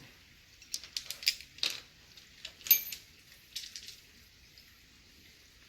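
Small steel parts and hand tools clinking and rattling while a wheel's lug bolts are being refitted. It is a run of sharp clicks through the first four seconds, with one louder, ringing metal clink a little before the 3-second mark.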